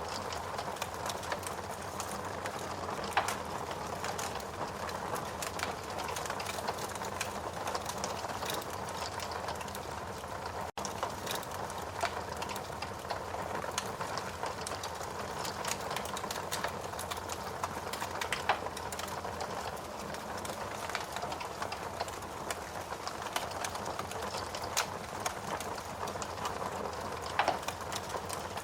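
Logs burning in a fireplace: a steady hiss of flame with dense, irregular crackles and pops, a few louder pops scattered through. The sound drops out for a split second about ten seconds in.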